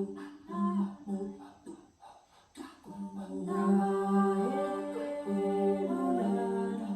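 A woman humming a slow, wordless healing-sound melody: a few short hummed phrases, a brief pause about two seconds in, then long held tones that slide gently up and down in pitch.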